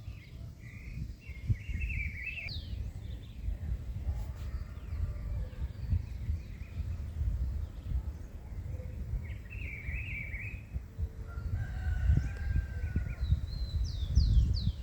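A rooster crows twice, once early and once about ten seconds in, and small birds chirp near the end, over a constant low rumble of wind on the microphone.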